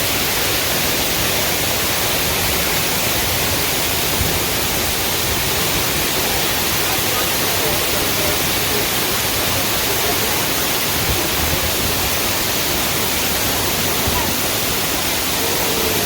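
Waterfall: a steady, loud rush of falling water that drowns out everything else.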